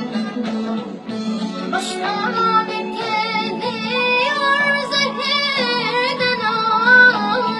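A girl singing a melody with long, wavering held notes over steady backing music.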